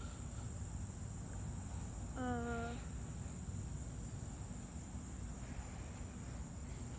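Crickets trilling steadily in one high continuous note, with a person's brief hummed sound a little over two seconds in.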